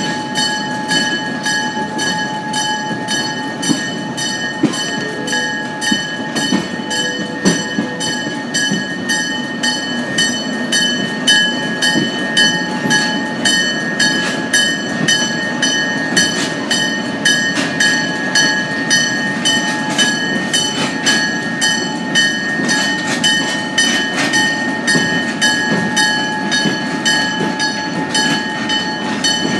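A passenger train rolling along the track, with a steady clicking of about two clicks a second and steady high-pitched ringing tones throughout.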